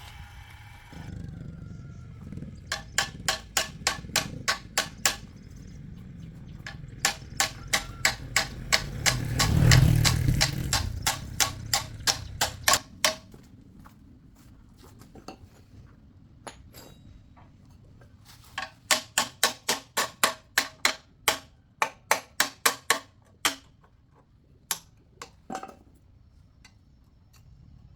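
Quick runs of hammer blows on metal, about four a second, each strike ringing briefly. They come in three bursts with a few single blows near the end, and a low rumble swells under the second burst.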